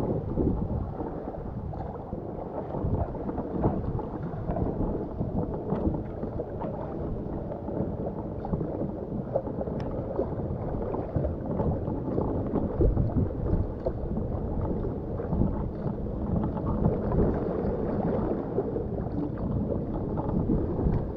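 Waves washing and splashing against a kayak as it rides through choppy water, with a continuous low rushing noise and irregular small splashes.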